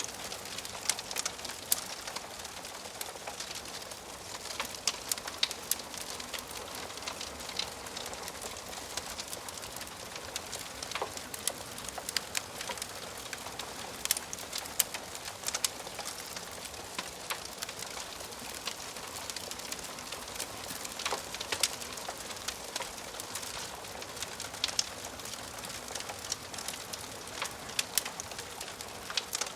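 Wood fire crackling in a fireplace: a steady hiss with frequent sharp, irregular snaps and pops from the burning wood.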